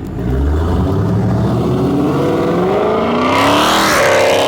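Muscle car engine accelerating hard, its pitch climbing steadily as it revs up through the gear. About three seconds in, a loud rushing noise joins the engine and stays to the end.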